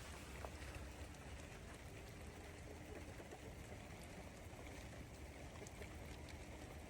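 Steady light rain falling, a faint even hiss with a low rumble underneath.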